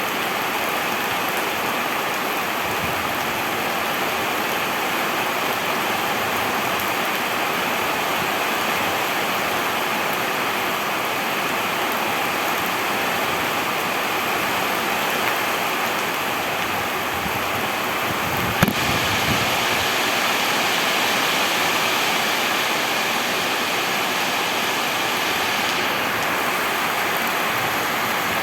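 Steady heavy rain: an even, continuous hiss. A single sharp knock with a brief low thud about two-thirds of the way through.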